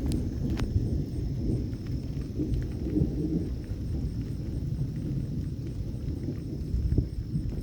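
Thunder rumbling low and continuously, rising and falling irregularly.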